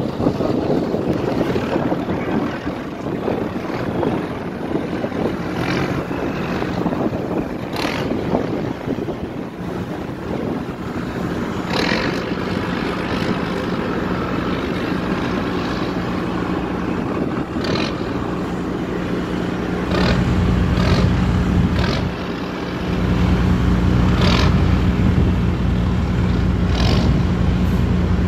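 A ship's engine running steadily with a low hum. About twenty seconds in it grows louder and deeper, dips briefly, then holds at the higher level. Wind on the microphone adds scattered gusty noise.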